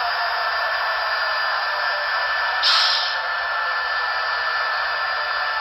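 Sound decoder of a model SD70ACe diesel locomotive playing its startup sound through the model's small speaker: a steady engine-like rumble with no deep bass, and a short hiss about three seconds in.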